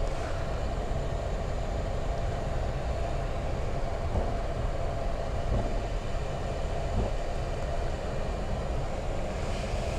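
Steady cockpit noise of a Boeing 737 MAX 8 taxiing with engine number 2 shut down: a low rumble with a steady hum.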